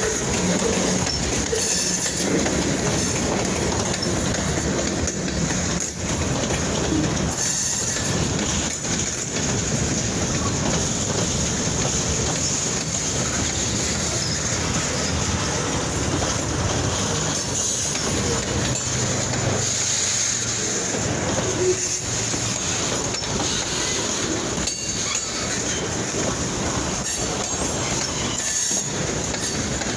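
Freight train rolling past: a steady rumble of steel wheels on the rails, with occasional clacks and a low hum underneath.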